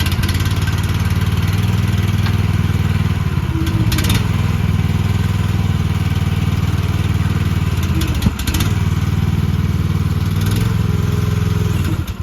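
Mini excavator's small engine being cranked on a cold start attempt, a steady mechanical drone with a brief break about eight seconds in, cutting off suddenly near the end. The engine is slow to catch: cold-blooded.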